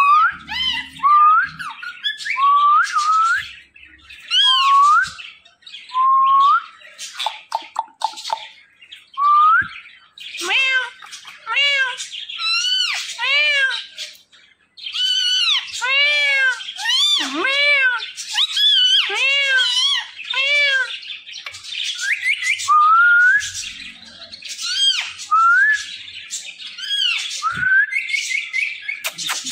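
Ringneck parrot calling: short upward-sliding whistles repeated every second or so, then in the middle a quick run of rising-and-falling squawks, then upward-sliding whistles again.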